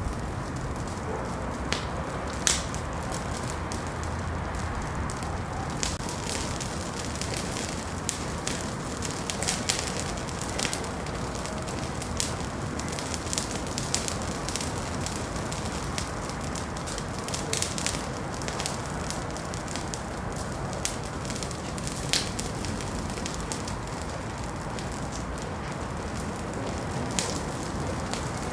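Wood fire in a fireplace crackling and popping, a steady low hiss of burning with irregular sharp pops scattered throughout.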